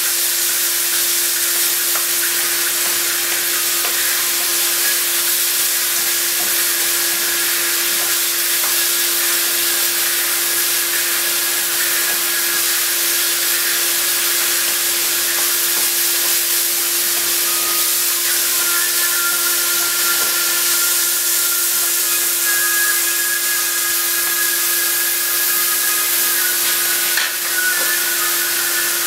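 Chicken and vegetables frying in a hot wok with soy sauce, sizzling steadily while being stirred, over a steady hum.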